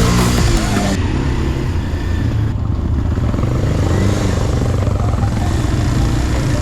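Enduro motorcycle engine running as the bike is ridden, its pitch rising and falling with the throttle.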